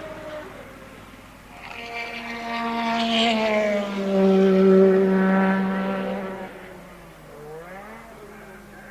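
A 1983 Formula One race car passing at speed: its engine note swells, peaks and drops in pitch as it goes by, then fades. Near the end a second, fainter car is heard accelerating with a rising note.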